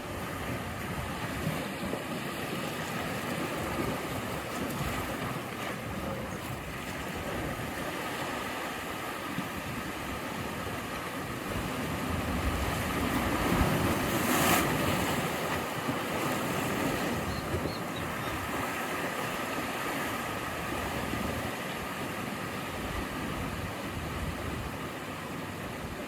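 Ocean surf washing steadily against the shore, with one wave building and breaking about halfway through, the loudest moment.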